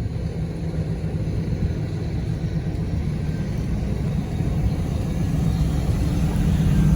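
1997 Pontiac Trans Am's V8 engine idling with a steady low exhaust rumble, growing slightly louder toward the end.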